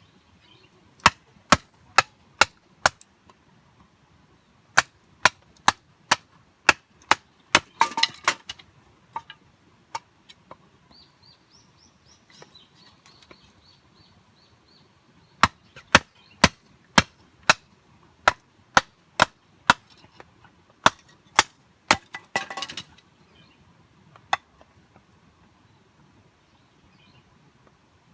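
Knife chopping on a cutting board: steady strokes about two a second in several runs, each ending in a quick rapid flurry.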